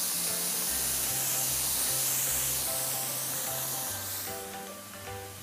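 Broccoli and asparagus sizzling and hissing in a hot frying pan. The hiss grows brighter about four seconds in as lemon juice is squeezed into the pan.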